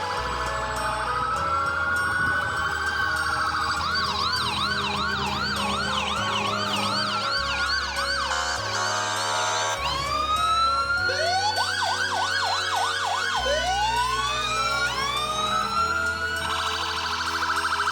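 Emergency-vehicle sirens: first a slow rising and falling wail, then a fast yelp of about two sweeps a second, and from about ten seconds in several sirens sounding at once at different pitches. Music plays underneath.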